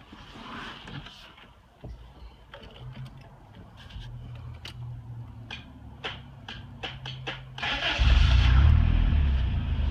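A Toyota 22R-TE turbocharged four-cylinder engine starts about eight seconds in and settles into a loud, steady run. Before it starts there is a low steady hum with scattered clicks.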